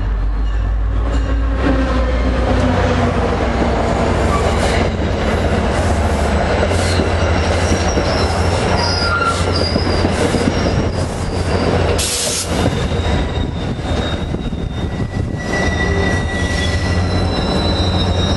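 A train rolling past on the rails with a steady heavy rumble and scattered clicks. Thin, high wheel squeals come and go through the second half.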